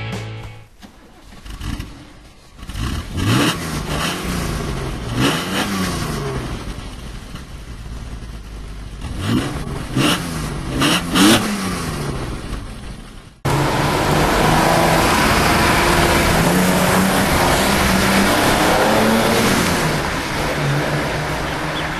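BMW 635 CS Hartge's straight-six on three Weber 45 carburettors, blipped at a standstill: the revs rise and fall in quick sweeps, in two groups. About two-thirds of the way in it cuts to the car driving off, a louder steady engine note with road noise.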